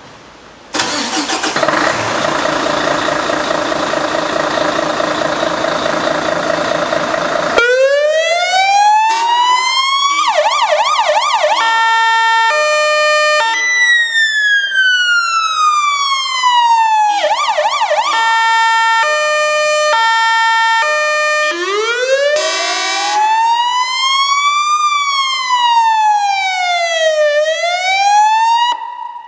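Fire engine warning signals: air horns blare for about seven seconds, then an AS-320 electronic siren takes over and cycles through its tones: slow rising and falling wails, short fast warbling yelps, and stepped high-low two-tone patterns, cutting off near the end.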